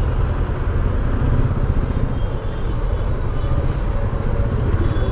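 Lifan KPR 165 motorcycle engine running steadily at low speed in jammed city traffic, with the surrounding traffic noise mixed in.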